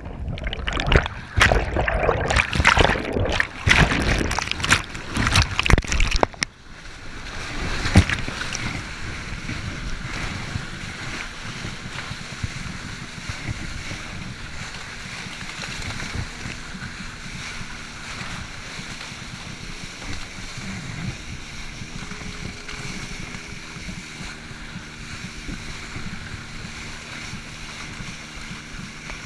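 Water splashing and rushing hard for about six seconds, cutting off suddenly. Then a steady hiss, with the low hum of the Yamaha WaveRunner XL 1200 jet ski's engine running slowly, which comes up clearer near the end.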